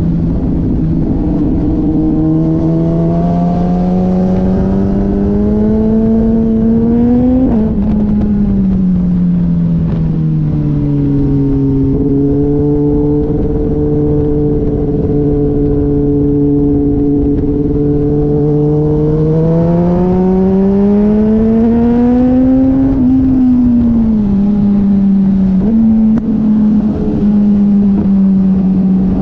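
A motorcycle engine heard on board while riding on track. Its pitch climbs slowly as it gains speed, then falls back about 8 seconds in and again about 23 seconds in as the bike slows. Between the climbs it holds a steady, lower note.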